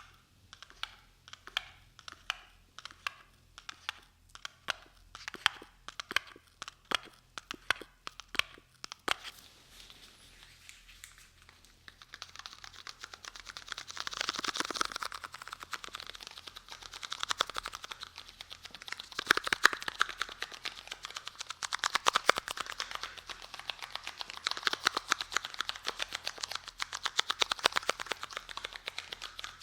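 Close-up ASMR trigger sounds: slow, evenly spaced taps about twice a second for the first nine seconds, then after a short pause a fast, dense crackling and scratching made of many tiny clicks.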